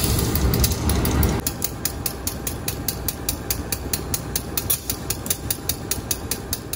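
Train running on the rails, with a rapid, regular clicking over a rumble that drops away about a second and a half in.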